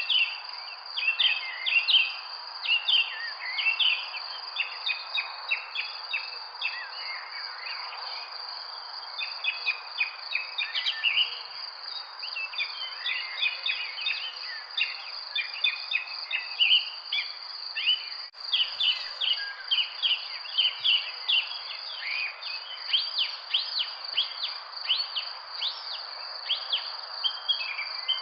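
Many small birds chirping and twittering in quick, overlapping calls over a steady, high insect buzz, with a soft background hiss.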